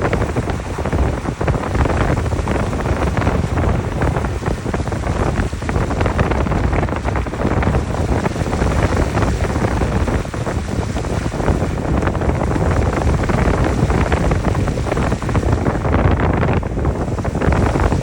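Jeep Gladiator Rubicon driving on an unpaved road: a steady crackle of tyres over loose ground over a low road rumble, with wind noise.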